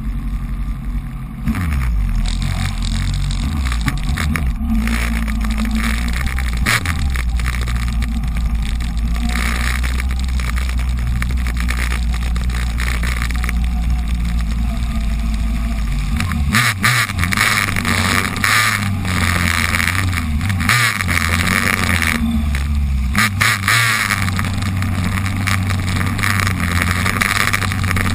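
Suzuki Bandit 1200 motorcycle's inline-four engine running as it pushes through deep floodwater, with water rushing and splashing. About halfway through, the engine note changes and the splashing gets louder.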